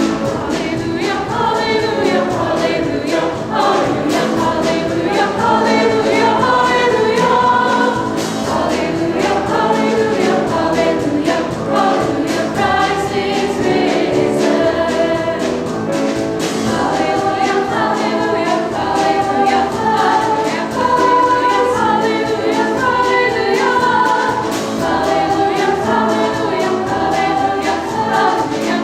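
A choir singing a gospel-style song without a break.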